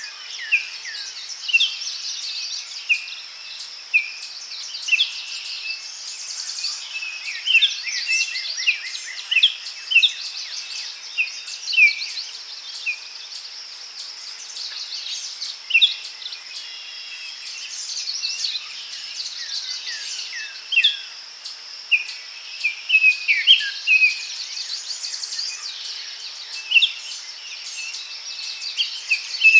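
Daytime forest ambience: several songbirds chirping in short, quick calls over a steady high insect buzz.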